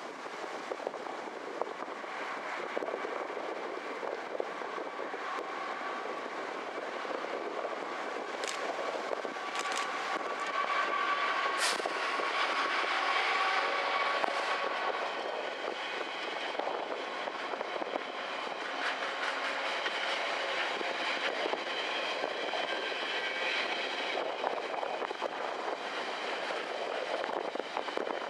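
A Freightliner locomotive hauling a container freight train past, loudest about halfway through as the locomotive goes by, then the steady noise of the container wagons rolling past. A few sharp clicks come from the wheels just before the loudest part.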